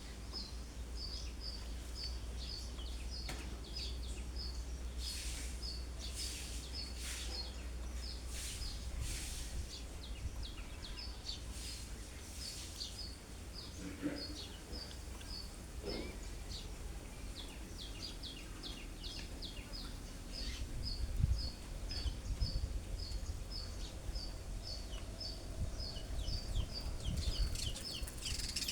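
Small birds chirping outdoors, with sharp high chirps clustered in the middle and near the end. A short high note repeats steadily about twice a second throughout, over a low rumble of wind or background noise.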